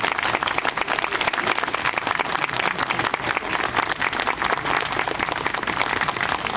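Crowd applauding: many people clapping steadily and densely.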